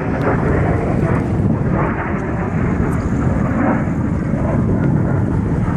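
Steady, loud jet-engine noise from Blue Angels F/A-18 Hornets, mixed with wind buffeting the phone's microphone.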